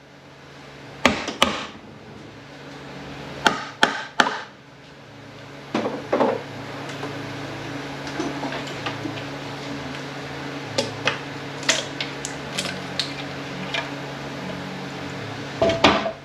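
Hand tools knocking and clanking against the metal of an automatic transmission being taken apart, sharp knocks in small groups with quieter clicks between, over a steady low hum.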